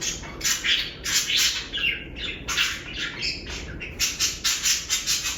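Budgerigars chattering: a rapid run of short chirps and squawks.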